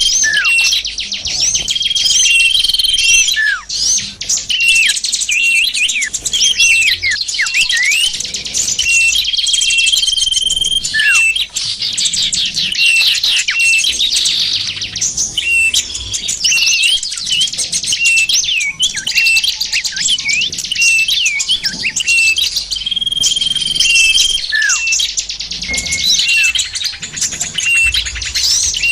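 Bird-lure recording of small songbirds calling densely over one another: rapid chirps, trills and quick falling whistles, with a held high whistle that recurs every several seconds. It is a lure call meant to draw small wild birds such as bulbuls, prinias and fantails.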